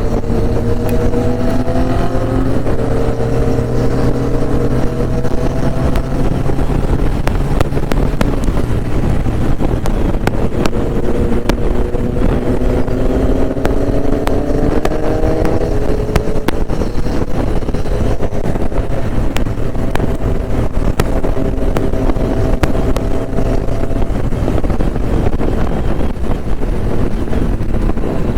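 Motorcycle engine pulling hard through the gears: three long, slow climbs in pitch, each broken off by a shift, under heavy wind rush on a riding microphone.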